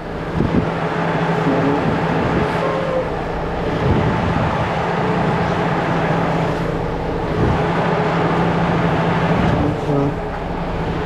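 Semi truck's diesel engine running steadily at low revs with a constant low hum as the truck reverses slowly.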